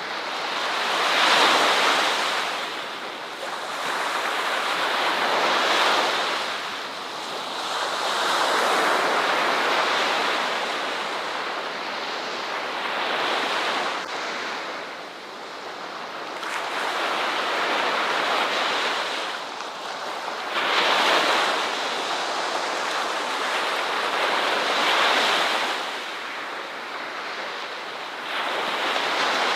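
Ocean waves breaking on a beach, the surf swelling and ebbing every few seconds.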